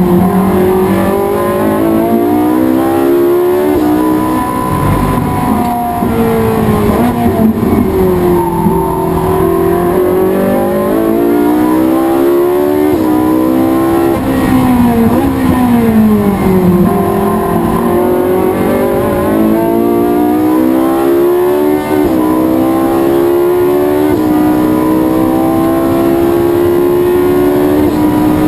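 Race car engine lapping at racing speed. Its pitch climbs steadily under acceleration and falls steeply three times as the car slows for corners, then climbs again.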